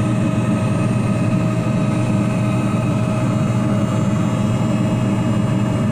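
Electric heat gun blowing on full blast into a pellet furnace's burn pot, a steady whir with a constant hum, mixed with the furnace's blower running.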